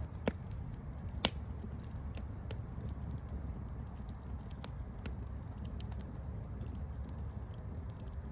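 Wood campfire burning with a steady low rumble and scattered crackles and pops, one sharp, loud pop about a second in.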